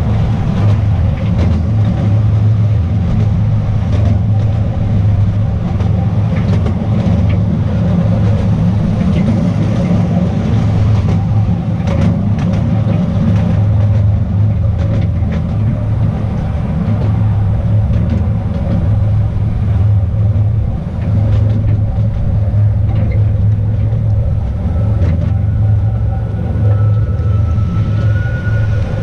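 Steady rumble of the Artouste narrow-gauge train running along its track, heard from on board, with scattered clicks and knocks from the wheels on the rails. A faint, thin high tone comes in near the end.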